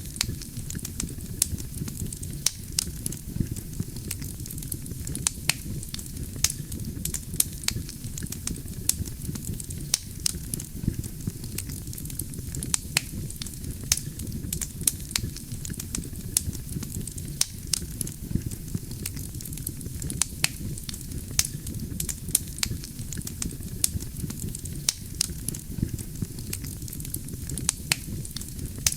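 Wood fire burning with a steady low rumble and many sharp, irregular crackles and pops from the burning logs.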